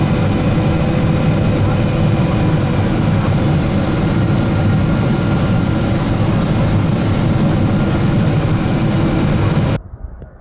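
Boeing 777-200ER cabin noise on approach: a steady rush of engine and airflow with several steady engine tones. Near the end it cuts off abruptly to a much quieter, muffled outdoor sound.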